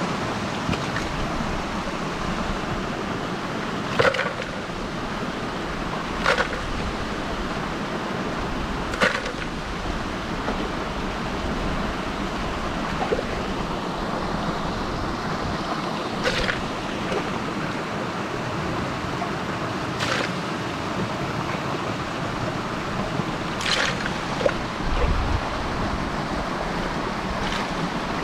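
Steady rush of running water, with a short sharp knock or splash every few seconds.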